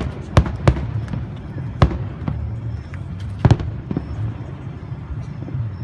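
Fireworks bursting: several sharp bangs at uneven intervals, the loudest about three and a half seconds in, over a steady low rumble.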